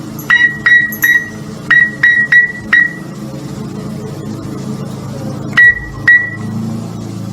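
A series of short, high beeps, about eight in the first three seconds and two more a little past halfway, over a steady low hum.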